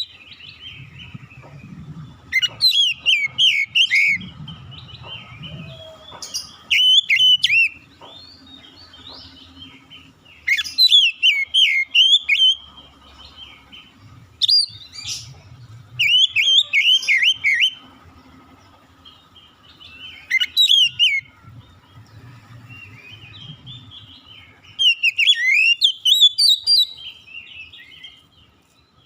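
Oriental magpie-robin singing: bursts of rapid, varied whistled and warbled phrases, each a second or two long, repeated every few seconds.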